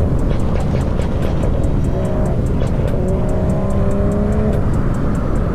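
BMW M340i's turbocharged inline-six accelerating over a heavy road and wind rumble, its engine note rising gradually through the second half.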